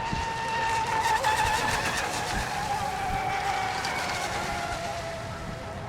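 Racing radio-controlled boats' motors giving a high-pitched whine that peaks about a second in, then slowly drops in pitch and fades as the boats run away across the water.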